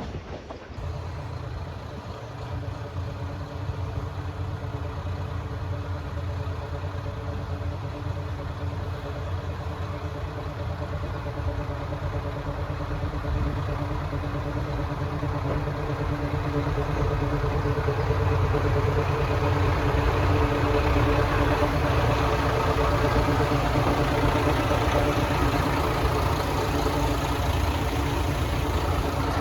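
Diesel train engine running steadily, its hum growing gradually louder over the second half.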